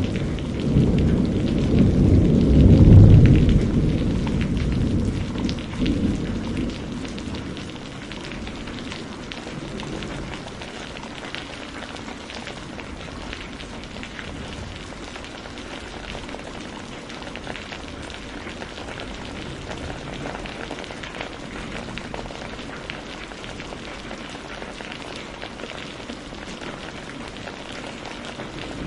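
Steady rain falling, with a deep roll of thunder at the start that swells about three seconds in and dies away by about seven seconds, leaving the rain alone.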